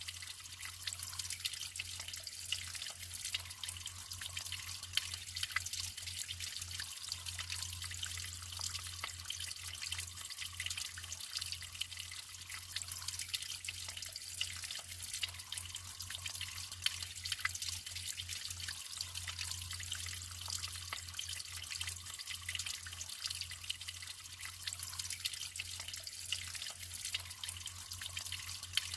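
Natural water trickling and flowing steadily, with many small drips and splashes.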